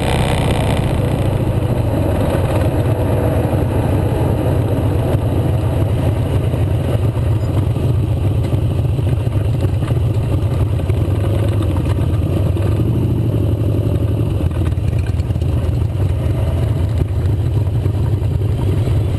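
Motorcycle engine running steadily while riding, an even low hum with little change in speed.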